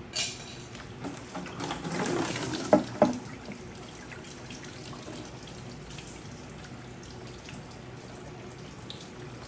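Hand work on an ATV's radiator mounts: a rustling clatter with two sharp knocks about three seconds in, over a steady low hiss.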